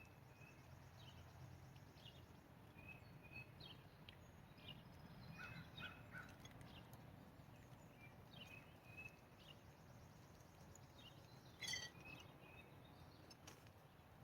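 Faint, scattered short bird chirps and calls over a quiet outdoor background, with one louder sharp call near the end.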